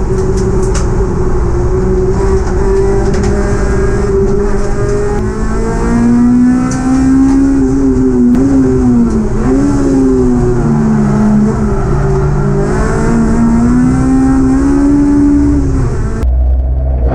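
Honda Civic EP3 Type R race car's 2.0-litre four-cylinder engine, heard from inside the stripped cabin, running hard under racing load, its pitch rising and falling repeatedly with throttle and gear changes. The sound changes abruptly about a second before the end.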